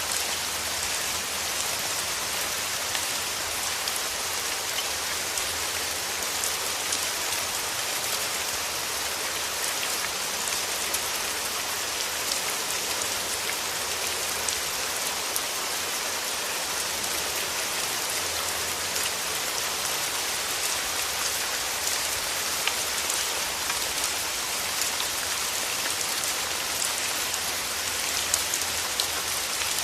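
Steady rain falling, a constant hiss with fine patter of individual drops.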